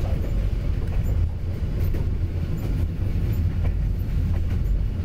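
Passenger train running along the track, heard from inside the carriage: a steady low rumble of the wheels and carriage with a few faint, irregular clicks.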